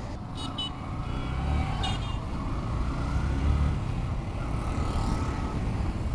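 Motorcycle riding along a road: the engine runs steadily under wind noise and road traffic, with two brief high chirps about half a second and two seconds in.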